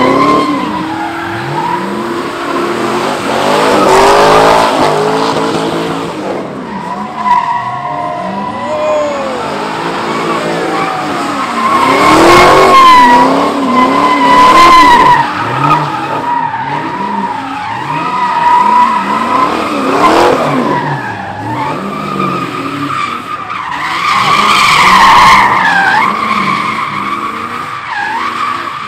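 Car tyres screeching as a car spins donuts, over an engine revving up and down again and again. It swells loudest a few times, around 4, 13 and 25 seconds in.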